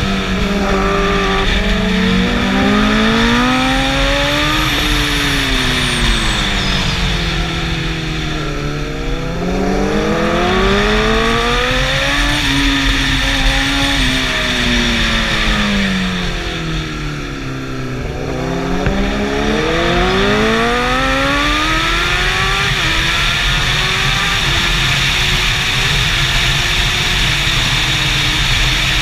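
Superbike engine accelerating hard up through the gears, then dropping in pitch as it slows into a corner, several times over, under a steady rushing noise.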